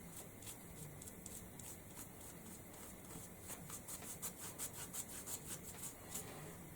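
Paintbrush dry brushing paint onto a chopping board: a quick series of faint scratchy brush strokes, about three a second, a little stronger in the second half.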